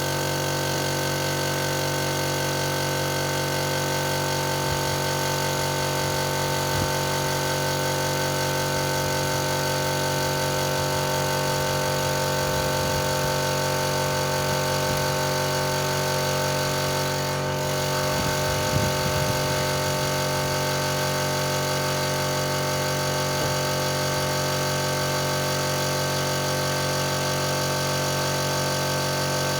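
A motor running at a steady speed, a constant hum with several fixed tones, and a few faint knocks along the way.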